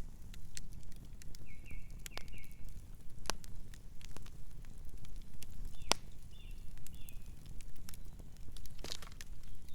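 Campfire crackling, with scattered sharp pops over a steady low rumble of burning wood. A few short high chirps come in two small groups, early and about two-thirds of the way in.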